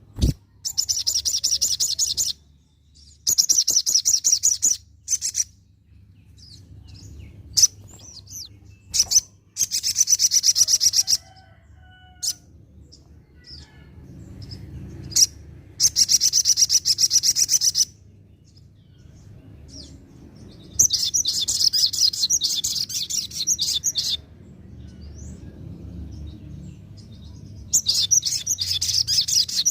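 Olive-backed sunbird (sogon) singing: six bursts of fast, high twittering song, each about two seconds long, separated by pauses with a few single sharp chips.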